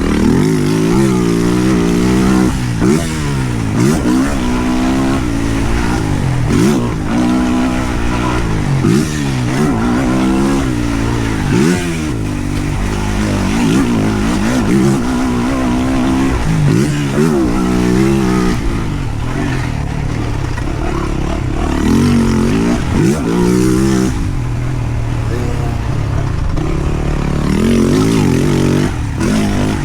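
Yamaha YZ450F single-cylinder four-stroke motocross engine being ridden hard, its pitch rising and falling over and over as the throttle is opened and shut, with a haze of wind and track noise over it.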